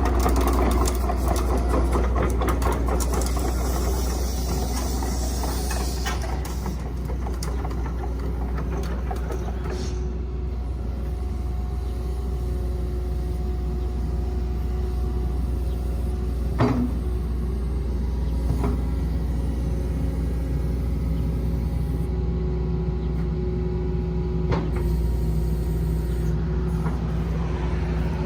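Kobelco SK135SR-2 excavator's diesel engine running steadily with a deep hum, with busier clattering over the first few seconds. A single sharp knock comes about two-thirds of the way through.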